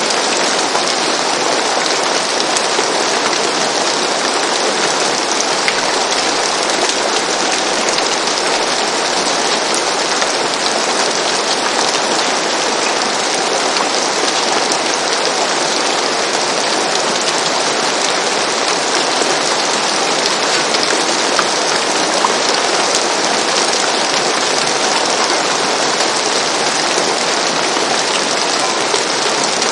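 Steady rain falling on a roof, an even hiss with faint scattered drop ticks.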